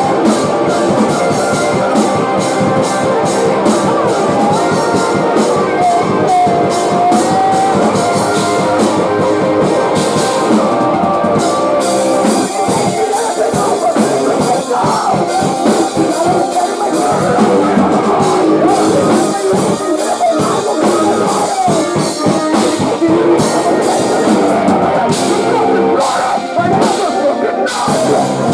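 Post-hardcore band playing live with distorted guitars, keyboard, a pounding drum kit and vocals.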